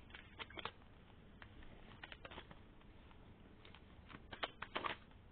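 Faint, scattered light clicks and rustles of tarot cards being handled, with a quick cluster of them near the end.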